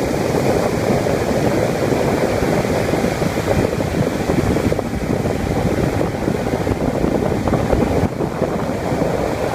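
Small boat underway with its 15-horsepower outboard motor running steadily, water rushing past the hull and wind buffeting the microphone.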